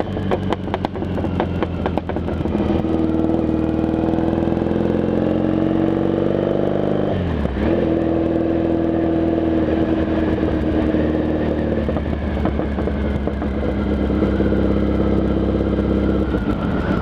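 Triumph Bonneville parallel-twin motorcycle engine pulling away, its pitch rising steadily for about seven seconds. A brief drop at the gear change follows, then it holds a steady cruise.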